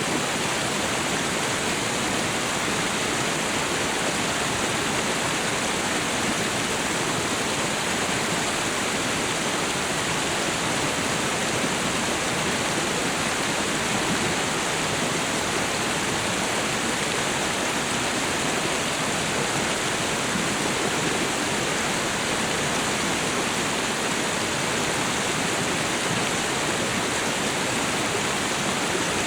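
Waterfall and river water rushing in a steady, unchanging roar of white noise.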